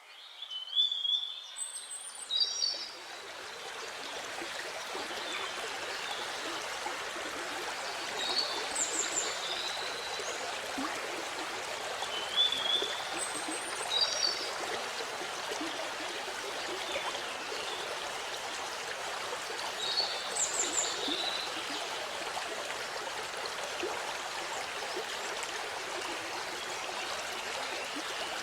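Waterfall with water rushing steadily, fading in over the first few seconds. A small bird calls in short, high phrases every several seconds over the water.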